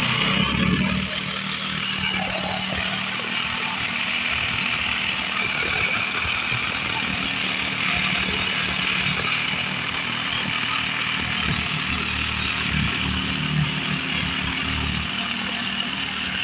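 Electric power saw running steadily as it cuts through a particleboard floor panel; a loud, continuous motor-and-cutting noise with a steady low hum underneath.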